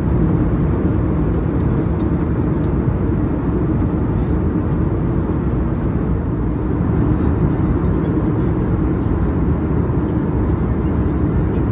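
Steady low rumble of an Airbus A321-200's engines and airflow heard inside the passenger cabin.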